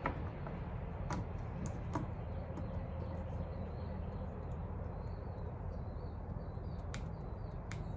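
A few sharp, light clicks of small parts being handled, over a steady low background hum, while a small retaining clip is worked onto a leaf blower's carburetor.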